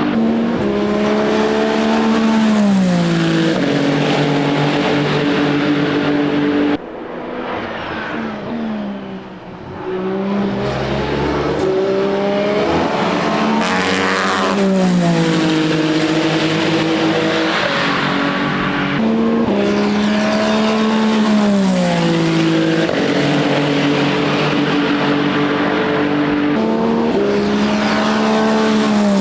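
Ferrari 499P hypercar's twin-turbo 120° V6 at racing speed, its pitch falling in steps as it brakes and downshifts, then rising again as it accelerates, several times over. The sound drops sharply about seven seconds in and comes back up a few seconds later.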